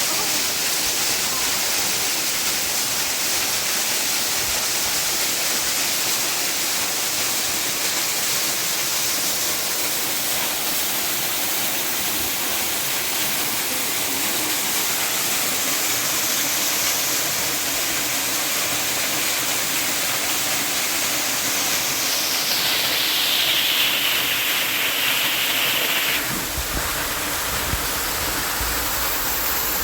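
Rushing water of a mountain stream or waterfall, a steady hiss. About four seconds before the end the sound changes, and a low rumble comes in.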